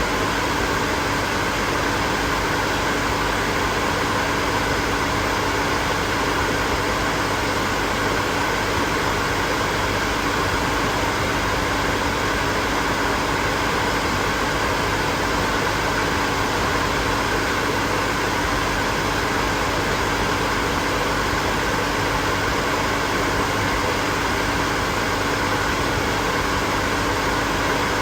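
Hair dryer running steadily: an even rush of blown air with a constant motor hum under it.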